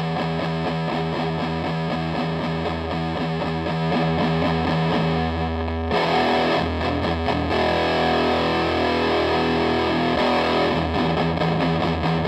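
Electric guitar played through a Donner Dark Mouse distortion pedal, a clone of the RAT: sustained distorted notes and chords, turning brighter and a little louder about six seconds in.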